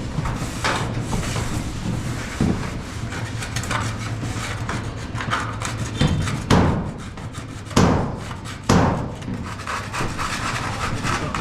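Building-site work noise: ongoing clatter and knocking over a steady low hum, with four louder hammer-like bangs in the second half.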